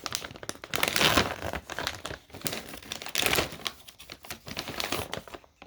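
Plastic snack bag crinkling in irregular spells as it is handled and opened.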